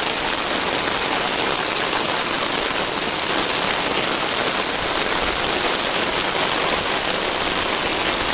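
Heavy rain falling steadily on waterlogged grass and shallow standing floodwater, a dense even patter with no breaks.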